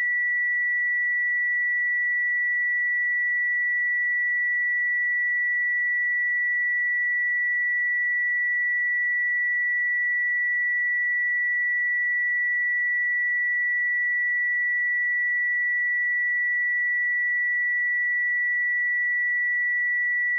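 A pure 1952 Hz sine-wave test tone, held steady at one pitch and level without a break.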